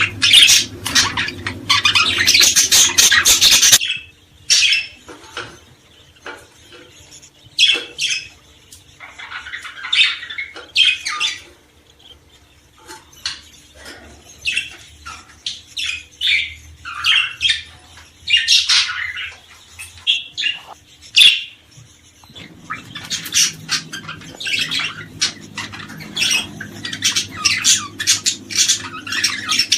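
Small songbirds chirping and calling in a dense, rapid chatter for the first few seconds, thinning to scattered calls, then turning dense again about 22 seconds in.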